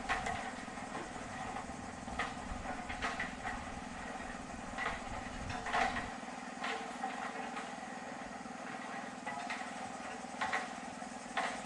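Steady drone of blower fans inflating a dome's airform, with scattered light clicks and knocks; the deep rumble drops away about halfway through.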